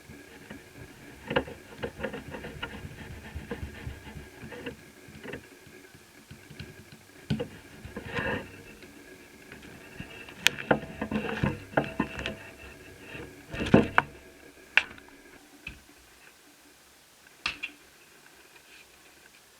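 Hands working on laptop parts: irregular small clicks and taps of plastic and metal pieces, with rustling handling noise. It is busiest over the first two-thirds, with a cluster of sharper clicks around the middle, then thins to a few isolated clicks.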